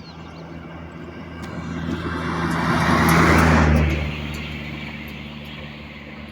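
A motor vehicle passing close by: its engine and tyre noise grow louder, peak about three seconds in, then fade away over a steady low engine hum.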